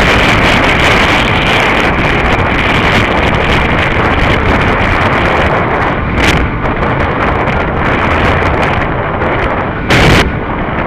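Wind rushing over the microphone of a camera on a rider at speed, with a steady high hum underneath. There are two brief, louder blasts: a short one about six seconds in and a stronger one near ten seconds.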